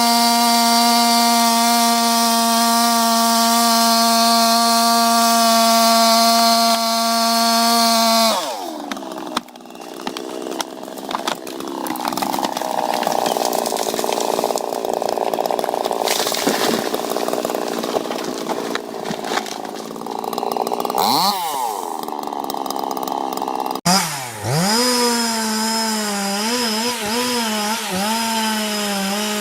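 Two-stroke chainsaw engines. One runs at full throttle with a steady high whine until its pitch drops away about eight seconds in. A noisy stretch follows, with a brief rev near twenty-one seconds, then an abrupt cut near twenty-four seconds to a saw cutting, its pitch wavering under load.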